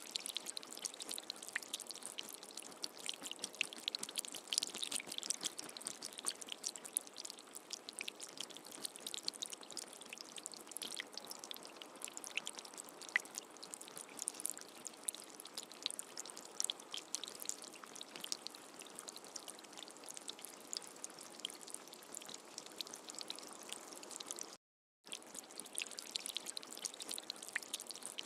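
Steady rain: a continuous hiss dense with the ticks of individual drops. It cuts out completely for a moment about 25 seconds in, then carries on as before.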